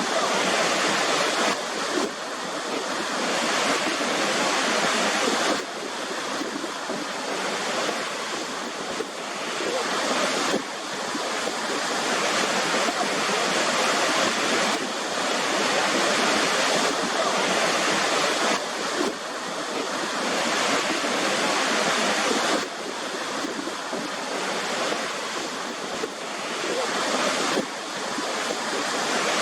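Waterfall: a continuous rush of falling water, with sudden small jumps in level every four or five seconds.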